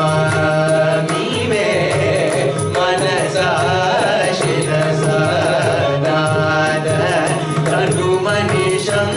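Carnatic music: a melodic line of pitched notes over a steady drone, with mridangam strokes.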